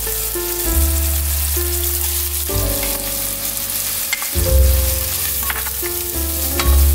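Diced onion and tomato sizzling in hot olive oil in a nonstick pan, stirred with a spatula, with a few short clicks of the spatula against the pan. Background music with a bass line plays throughout.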